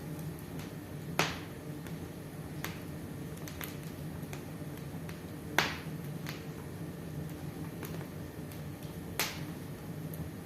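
Wood fire burning in a fireplace: a steady low rustle with light crackles, and three sharp pops from the burning logs, about a second in, midway (the loudest) and near the end.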